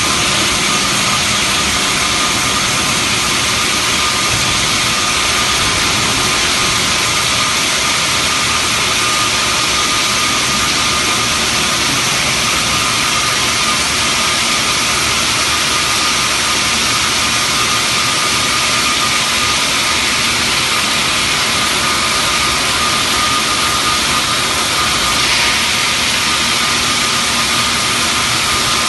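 Xianda CHJJ-1500 CNC bandsaw cutting marble: a loud, steady machine noise with a constant high whine.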